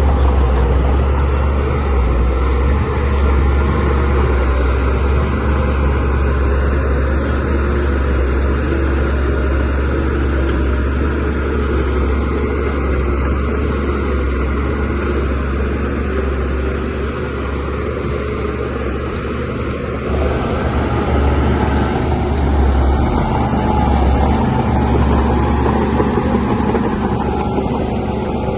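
Shantui DH17C3 bulldozer's diesel engine running steadily as it works, a deep drone with a noisy wash above it, swelling slightly now and then.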